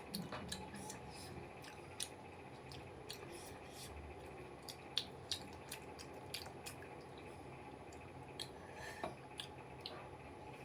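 Close-miked eating: chewing with wet mouth smacks and scattered sharp clicks, over a faint steady hum.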